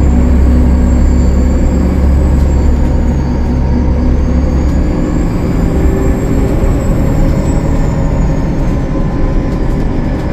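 Gillig Low Floor bus's Cummins ISL9 diesel engine running under load, with a high whistle that rises and falls in pitch; the deep engine drone eases off about five seconds in.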